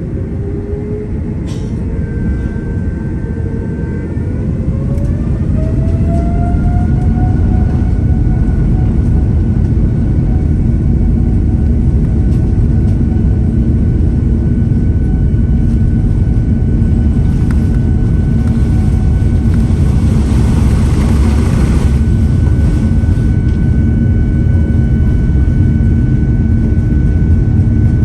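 Airliner jet engines spooling up to takeoff thrust, heard from inside the cabin: a whine rising in pitch and getting louder over the first six seconds or so, then holding steady over a loud low rumble.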